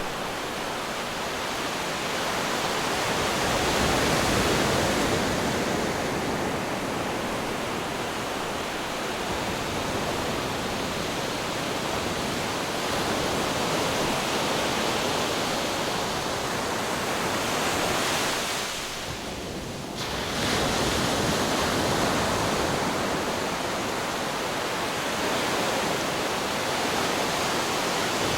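Ocean waves breaking against rocks: a continuous rush of surf that swells and eases, with a short lull about two-thirds of the way through before the next wave surges in.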